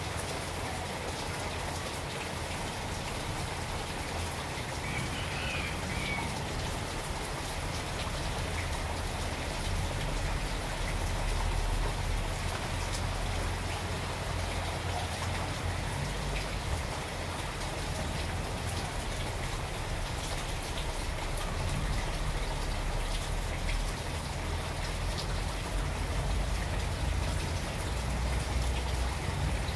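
Steady rain falling on garden foliage: an even hiss dense with the patter of individual drops, over a steady low rumble.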